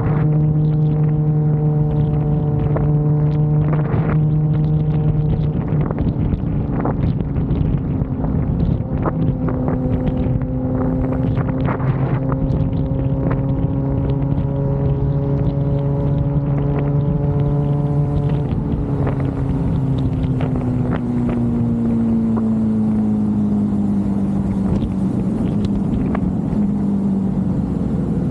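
Suzuki GSX-R motorcycle engine running at a steady cruise under wind rush on the microphone. The engine note holds, climbs gently through the middle, then falls slowly over the last third as the bike eases off.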